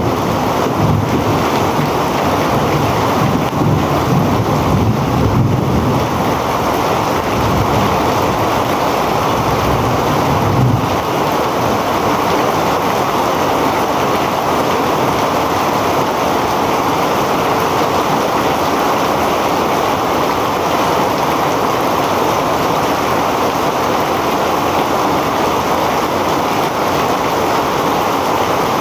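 Heavy rain pouring steadily, a dense even hiss, with a low rumble underneath for about the first ten seconds that then dies away.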